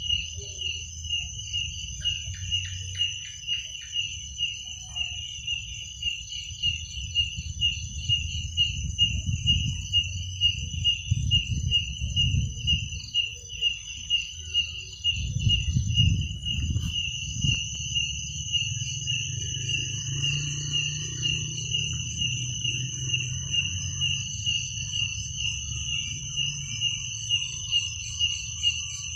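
Crickets chirping: one cricket's chirp repeats steadily about twice a second, with a higher, continuous insect trill behind it. A low rumble runs underneath and swells in the middle.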